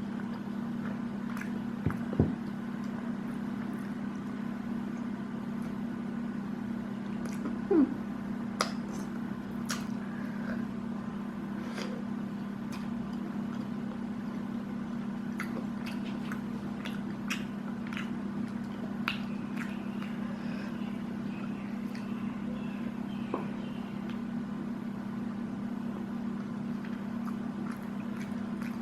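Close-up mukbang eating sounds: chewing and soft wet mouth sounds, with scattered small clicks, over a steady low hum. A few slightly louder sounds come about 2 and 8 seconds in.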